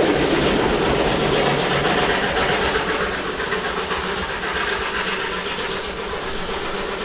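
A train running past on the railway line, a steady noise of wheels and machinery that slowly fades over the second half as it draws away.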